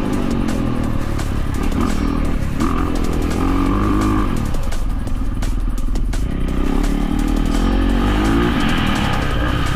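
Dirt bike engine revving up and down repeatedly while riding, the pitch climbing and dropping several times as the throttle is worked.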